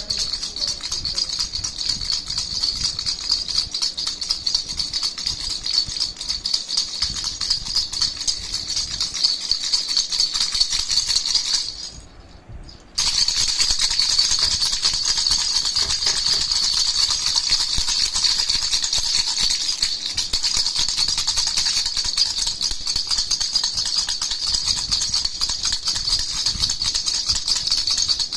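Baby rattle (jhunjhuna) shaken without a break, a dense high rattling. It drops away for about a second some twelve seconds in, then picks up again.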